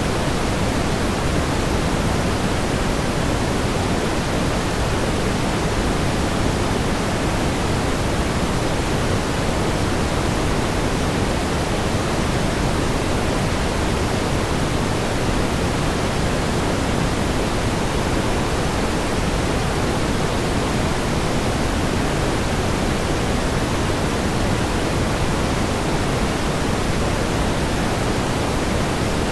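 Steady pink noise: an even, unchanging hiss, fuller in the low end than in the high.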